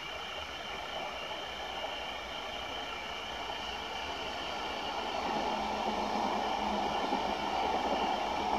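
Keihin-Tohoku Line E233-series electric commuter train running past: a steady rumble of wheels on rail that grows louder about five seconds in, when a low hum joins it.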